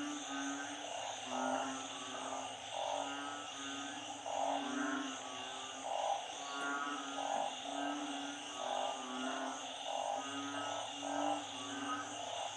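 A chorus of narrow-mouthed frogs and small frogs calling in floodwater, many overlapping croaks repeating every half second or so, over a steady high insect drone. Such choruses follow heavy rain and flooding, when the frogs gather to breed.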